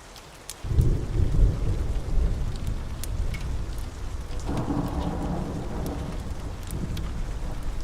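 A roll of thunder that breaks in suddenly under a second in and rumbles low, swelling again about halfway through, over steady rainfall with fine crackling ticks.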